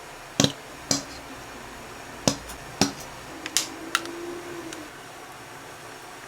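Six sharp taps or clicks, coming in three pairs about half a second apart, with a faint steady hum partway through.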